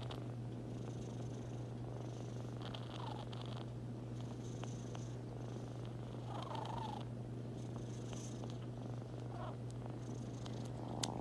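A cat purring steadily, with a few faint short squeaks over it.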